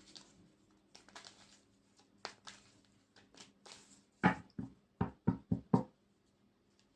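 Tarot cards being handled on a table: soft rustles and slides, then a sharp tap about four seconds in and a quick run of four or five taps about a second later.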